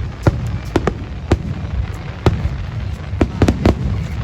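Aerial fireworks shells bursting in a grand finale: about nine sharp bangs, several in quick succession near the end, over a continuous low rumble of more distant bursts.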